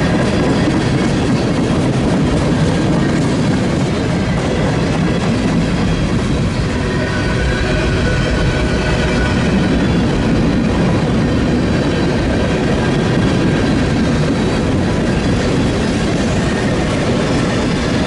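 Train cars rolling past on the rails with a steady, continuous rumble of wheels, and a faint high squeal from the wheels riding over it.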